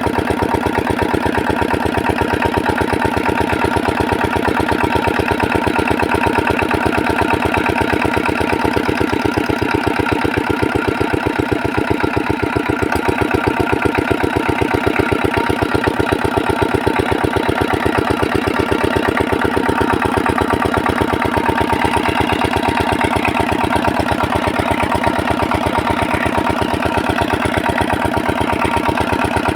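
8 hp single-cylinder diesel engine of a water pump set running steadily, with a rapid, even train of firing strokes.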